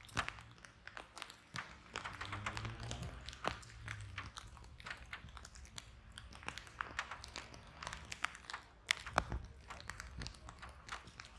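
Wood fire crackling in a fireplace: a steady stream of irregular sharp pops and snaps, with a couple of louder pops about nine seconds in, over a faint low rumble of the flames.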